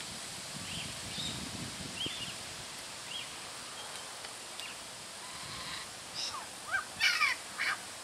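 Birds calling: a few short, soft chirps in the first half, then a louder cluster of sharp calls with falling notes near the end.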